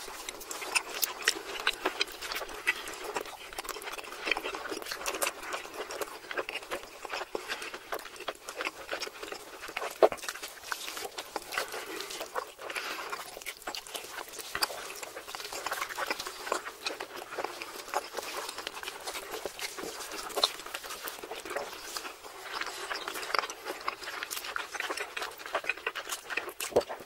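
Close-miked chewing and lip-smacking of people eating seared steak and stretchy melted cheese: a dense run of small wet mouth clicks, with one sharper smack about ten seconds in.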